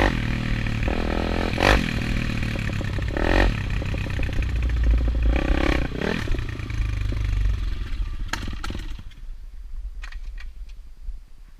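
190cc Daytona pit bike's single-cylinder four-stroke engine revving hard in repeated throttle surges for about six seconds, then fading as the bike moves away.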